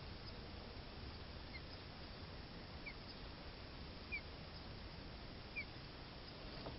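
A bird chirping: four short, high single notes spaced about a second and a half apart, over a steady low hiss.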